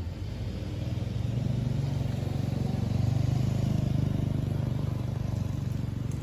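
A motor vehicle passing by, its low pulsing engine sound building, loudest around the middle, then fading away.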